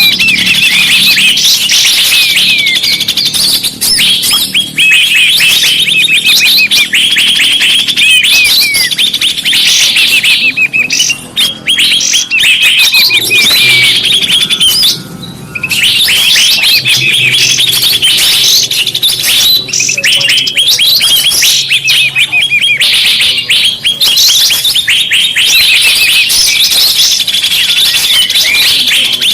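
Dense chorus of many small songbirds chirping and twittering over one another, loud and unbroken except for a brief lull about halfway. It is a recorded bird-lure track (suara pikat), played to draw wild birds in.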